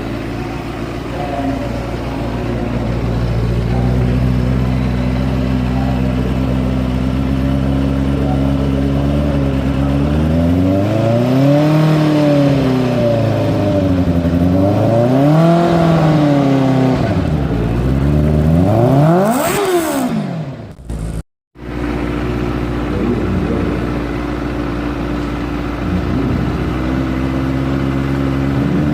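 Engine idling steadily, then revved three times, each rev climbing and falling back to idle, the third the highest. Shortly after the third rev the sound cuts out for a moment, then the idle resumes and a fourth rev begins near the end.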